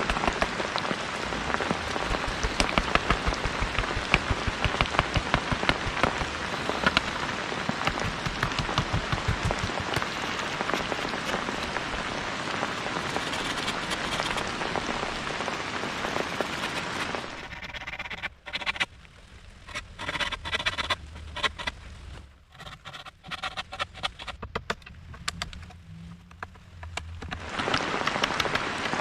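Heavy rain falling steadily, a dense hiss full of drop impacts. About two-thirds of the way through it drops away abruptly to scattered drips for some ten seconds, then the full rain comes back near the end.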